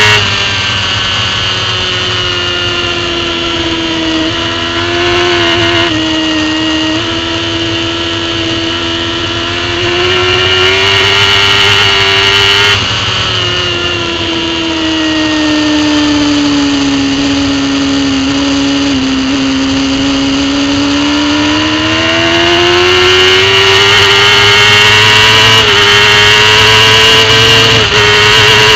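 Racing superbike engine recorded from an onboard camera at race pace. The pitch drops sharply at the start, steps up and down through gear changes, and falls slowly to a low note through a slow stretch in the middle. It then climbs again in upshifts, running loudest near the end.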